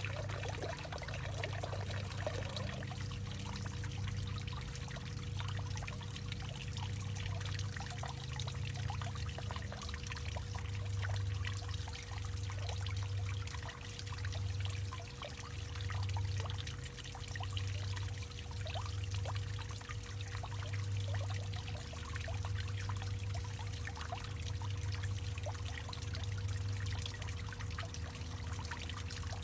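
Water trickling and pouring into a hollowed-out tree trunk, with a low hollow hum that swells and fades every second or two and a faint steady tone beneath.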